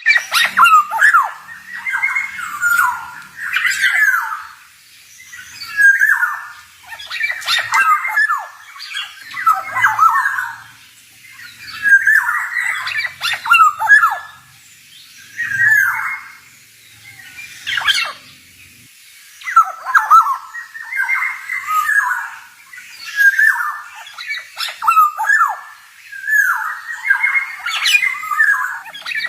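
Male black-naped oriole singing: a series of short phrases of whistled notes mixed with harsher rasping ones, one phrase every second or two with brief pauses between.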